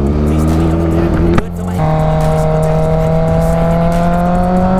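Kawasaki H2's supercharged inline-four engine running under load while riding. About a second and a half in there is a click and a brief dip, then the revs climb slowly and steadily.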